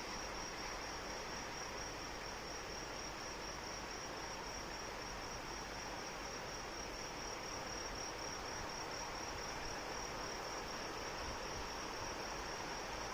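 Steady rain hiss with a continuous high-pitched cricket trill running over it, unchanging throughout.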